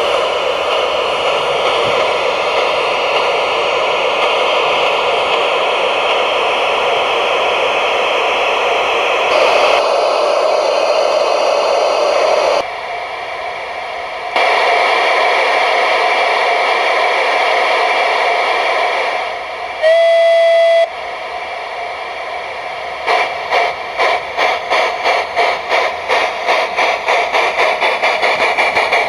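Märklin Gauge 1 Mallet tank locomotive's electronic steam sound module: a steady hiss of steam, one short whistle blast about two-thirds of the way in, then exhaust chuffs starting up and quickening as the locomotive gets under way.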